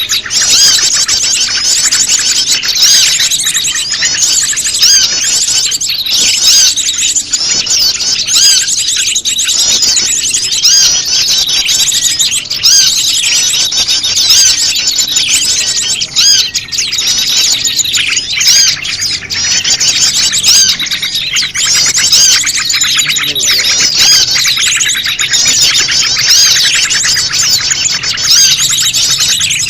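A bird-lure recording of prenjak lumut calls mixed with a noisy chorus of other small birds. Many birds chirp and twitter at once, a dense and unbroken tangle of high, quick notes.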